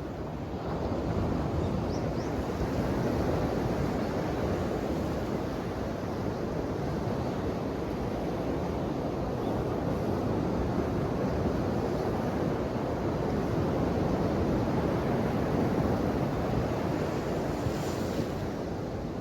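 Ocean waves: a steady rush of surf that swells up about a second in and keeps going without a break.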